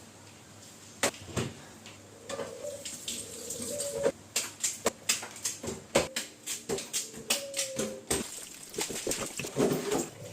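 Kitchen handling sounds: a run of sharp clicks and knocks, like utensils and containers being picked up and set down, with a few short squeaks between them. It starts about a second in and gets busier after about four seconds.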